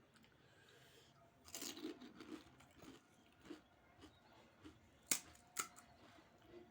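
Pani puri being eaten close to the microphone: a crunchy bite about one and a half seconds in, then soft chewing, with two sharp crunches or clicks near the end.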